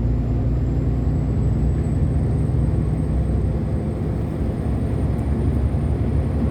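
Heavy truck's engine and road noise heard from inside the cab while driving at a steady speed: a constant low drone with a faint thin high whine above it.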